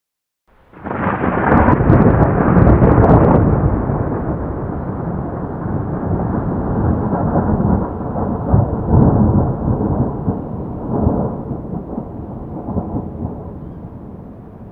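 Thunder: a loud crackling clap about a second in, then a long rolling rumble that swells several times and slowly fades.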